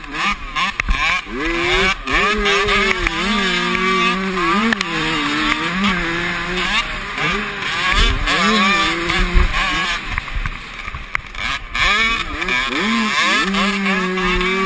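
Motocross bikes racing, their engines revving up and dropping in pitch again and again with the throttle and gear changes, more than one engine heard at once at times.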